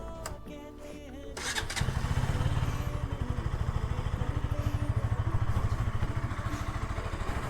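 KTM Duke 200's single-cylinder engine cranked on the starter and catching about a second and a half in, then idling with a fast, even pulse.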